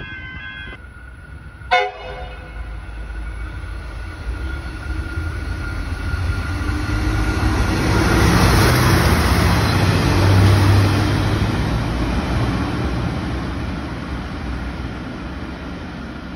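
A V/Line Sprinter diesel railcar gives a single short horn toot, then its engine and wheels build up loud as it passes close by and fade as it pulls away down the line.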